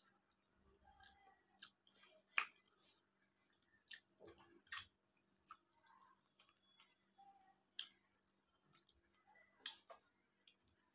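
Quiet chewing and mouth sounds of a person eating rice by hand, with scattered short sharp clicks and smacks, the loudest about two and a half seconds in.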